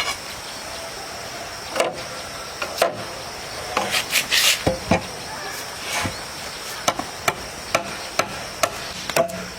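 A series of sharp knocks and taps, irregular at first and coming about twice a second near the end.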